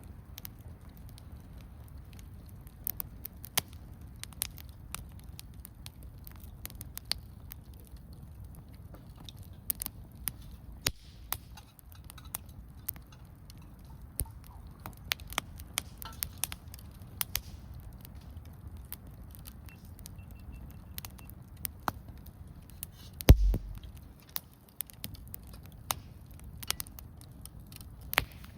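Wood campfire crackling, with scattered sharp pops over a low steady rumble. A single dull thump about 23 seconds in.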